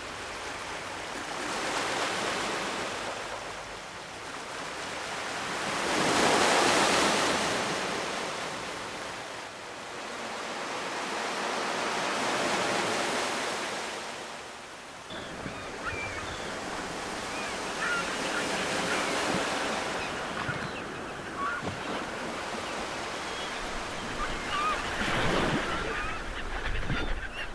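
Ocean waves breaking and washing in, swelling and fading every four to six seconds, loudest about six seconds in. About halfway through the sound changes abruptly to a steadier wash with low wind rumble on the microphone and faint short high chirps.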